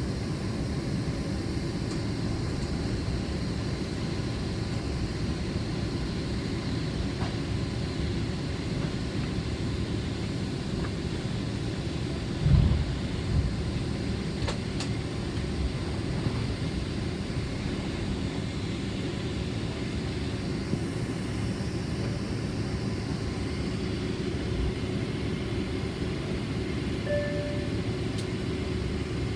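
Steady rumble of jet engines and air conditioning heard inside the cabin of a Boeing 767-400ER on the ground, with one thump about halfway through and a brief beep near the end.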